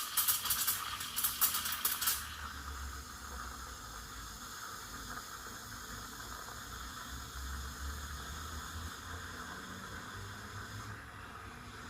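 Quick Mill Rubino espresso machine's steam wand steaming milk in a jug. For about the first two seconds it makes a loud crackling, sputtering hiss as the tip draws air into the milk. It then settles to a steadier, quieter hiss as the milk spins and heats.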